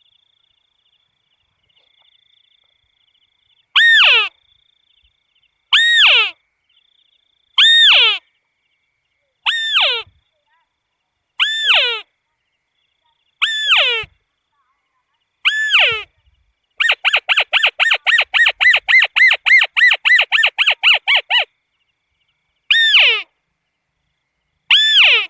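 Crake calls, loud and identical: single notes that slide sharply down in pitch, about one every two seconds. Midway they switch to a fast run of about twenty notes in four and a half seconds, then go back to single calls. A faint steady high insect buzz is heard in the first few seconds.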